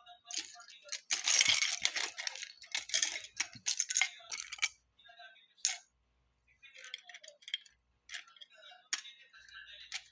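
Plastic Lego pieces rattling and clicking as they are handled. There is a dense rattle about a second in, then scattered single clicks.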